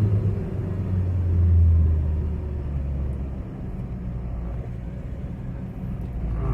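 Hyundai Verna's four-cylinder common-rail diesel engine, heard from inside the car, its low drone swelling briefly and then easing off into a steadier, lower rumble about three and a half seconds in.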